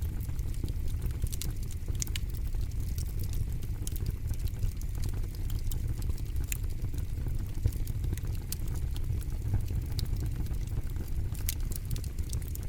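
Campfire burning, with frequent sharp crackles and pops at irregular intervals over a steady low rumble.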